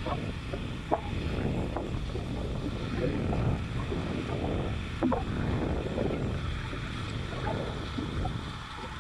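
Ford tractor's Hino diesel engine running, a rough low rumble with wind buffeting the microphone, and a few brief sharp clanks or squeaks about a second in and around five seconds.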